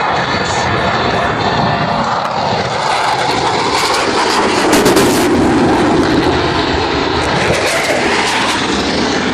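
Blue Angels F-18 Hornet jet flying overhead: continuous jet engine noise that swells to its loudest about five seconds in, then eases slightly.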